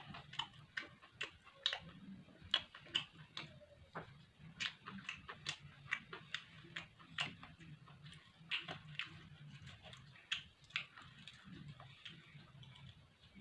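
A person chewing food close to the microphone: a run of sharp, irregular mouth clicks and crunches, about two or three a second.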